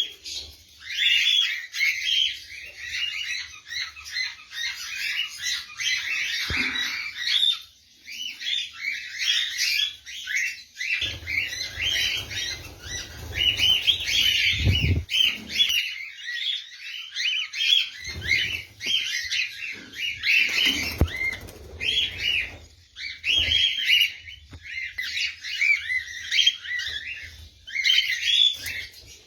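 A flock of caged lovebirds chirping nonstop in a dense, shrill chatter. Low bumps come through in the middle of the stretch.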